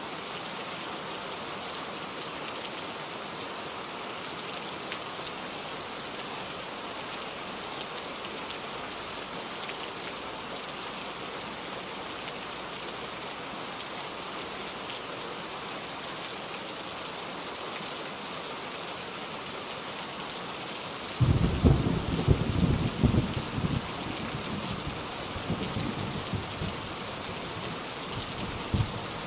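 Steady heavy rain falling. About three-quarters of the way through, a sudden low roll of thunder breaks in, loudest for the first few seconds, then rumbles on more softly.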